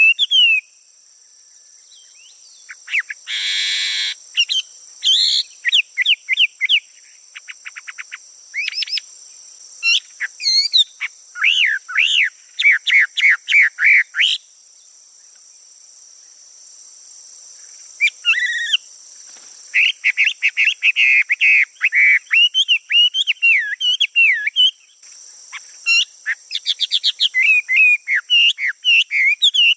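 A male songbird singing loud, varied phrases of rapid whistles and trills, in bursts with a quiet spell of a few seconds around the middle. A steady high insect drone runs underneath.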